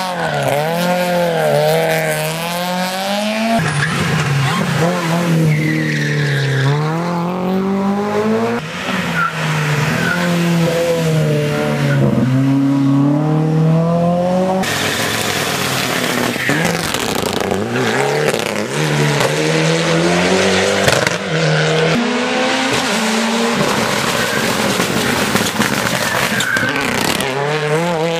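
Rally car engines at full throttle on a hill climb, the pitch rising and dropping again and again through gear changes, with sudden jumps between one car's run and the next.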